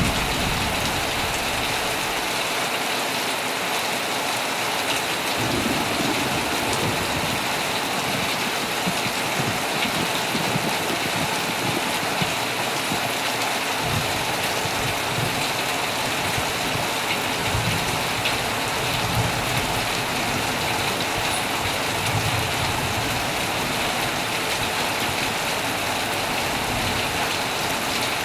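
Heavy rain falling steadily on a tent, an even hiss with faint low rumbles now and then.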